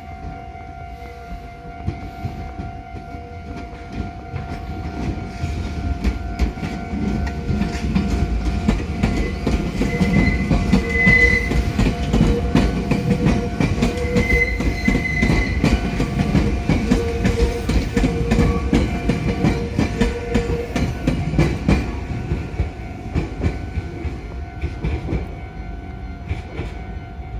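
Meitetsu train passing over a level crossing, wheels clattering over the rail joints. It grows to its loudest about ten to twenty seconds in, with a couple of brief high wheel squeals, then fades. The crossing's warning signal sounds throughout.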